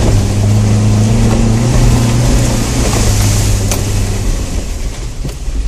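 Suzuki Grand Vitara's engine running at a steady low note, heard from inside the cabin as the SUV crawls over rutted mud in four-wheel-drive low range. A couple of short knocks come in the second half.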